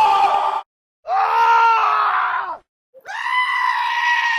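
A cartoon character's long, high, held screams, three in a row with short breaks between them. The first trails off about half a second in, the second drops in pitch at its end, and the third begins about three seconds in.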